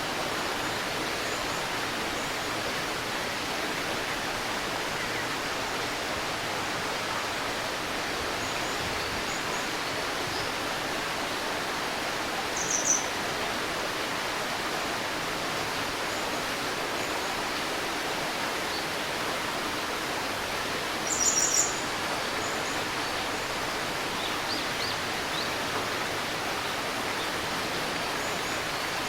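Steady rushing murmur of a babbling stream, with a bird's short high chirps twice (about a third of the way in and again around two-thirds through) and a few fainter calls in between.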